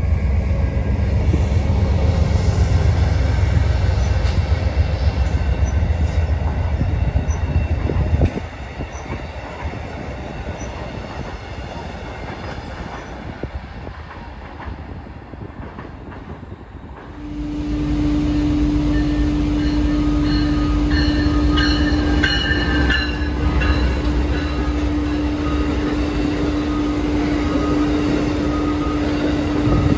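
Passenger trains passing: a loud low rumble for the first eight seconds, then a quieter stretch. Amtrak stainless-steel passenger cars then roll past a station platform with a steady hum, and brief high wheel squeals come a few seconds later.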